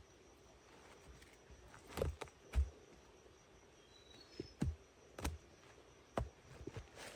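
A string of irregular knocks and thuds, the loudest about two and a half seconds in, over a faint steady drone of insects. A few quick high notes rise briefly about four seconds in.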